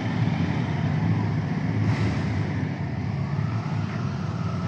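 Motorcycle engines running, a low steady engine note.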